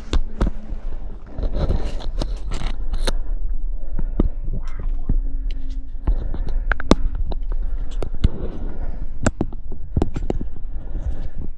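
Scattered sharp clicks and knocks, irregular and a dozen or more in all, over a steady low rumble.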